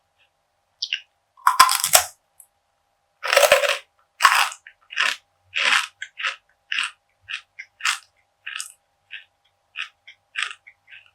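Crunchy perilla seed brittle (deulkkae gangjeong) being bitten and chewed close to the microphone: two loud bites in the first few seconds, then steady crisp crunching at about two or three crunches a second.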